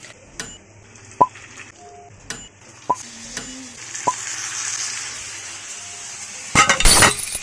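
Cooking in a pan on the stove: a utensil knocks against the pan several times, a soft sizzle comes up in the middle, and a short loud burst of noise comes near the end.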